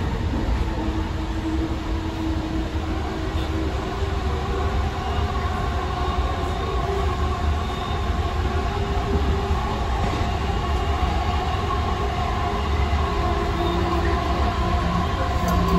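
AirTrain JFK car running along its elevated guideway, heard from on board: a steady low rumble of wheels on rail, with a steady whine that grows stronger about a third of the way in.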